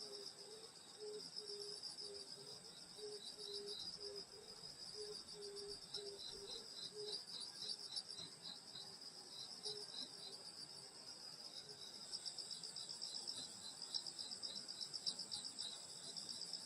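Crickets and other grass insects chirping: several overlapping high, rapidly pulsing trills, with a slower chirp that repeats a few times a second and joins about six seconds in. A low pulsed note repeats about twice a second and stops about seven seconds in.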